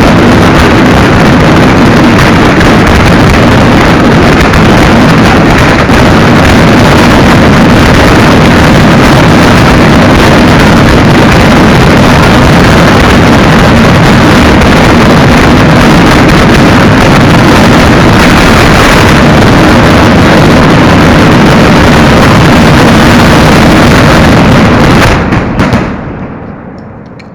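Fireworks barrage fired at close range, the shots so dense that they merge into one continuous noise that overloads the microphone. It cuts off suddenly near the end and dies away.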